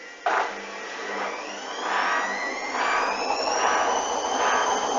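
Hoover washing machine starting to spin: the motor starts abruptly and its whine climbs steadily in pitch. The drum swishes rhythmically, about once every half to two-thirds of a second, with the load unbalanced.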